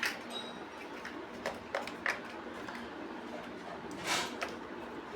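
Plastic building bricks being handled and pressed together: several short, sharp clicks, and a brief scrape about four seconds in.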